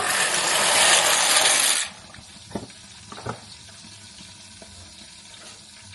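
Stovetop cooking pot: a loud rushing hiss for nearly two seconds that stops suddenly, then two light knocks.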